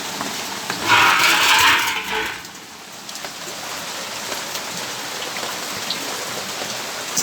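Steady rain falling, with scattered drop ticks. About a second in, a louder rushing noise swells for just over a second and then fades.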